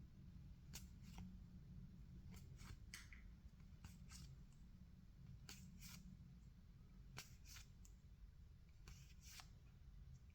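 Faint, soft swishes of 2024 Topps Series 2 baseball cards sliding off one another as a pack is flipped through, about one or two a second, often in pairs.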